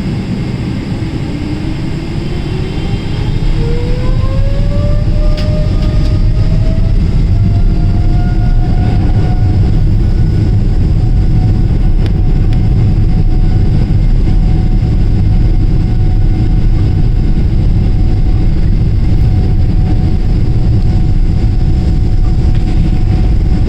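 A Boeing 777-300ER's GE90-115B jet engines spool up to takeoff thrust, heard from the cabin. A whine rises steadily in pitch over the first several seconds while a deep rumble builds, then both hold steady at full power as the takeoff roll begins.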